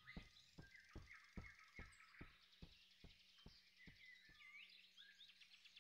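Near silence: faint forest ambience with small birds chirping, and soft regular ticks about two or three a second that fade away.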